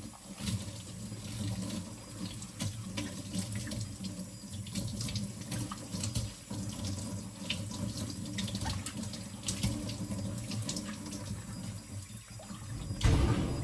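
Kitchen tap turned on and running onto bowls being rinsed in the sink, with water splashing and scattered light clinks of the dishes. There is a louder splash and knock near the end.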